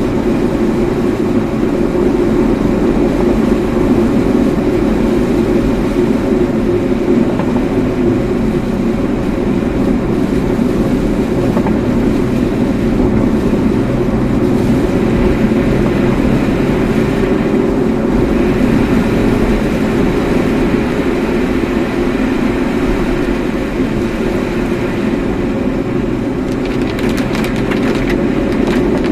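Steady engine and tyre noise of a car being driven.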